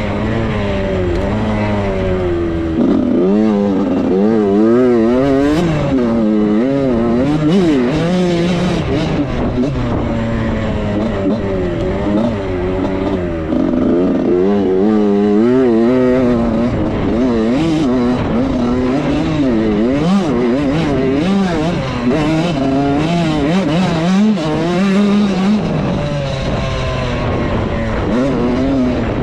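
Suzuki RM85's 85cc two-stroke single-cylinder engine being ridden hard, its revs rising and falling over and over as the throttle is worked and the gears are run through.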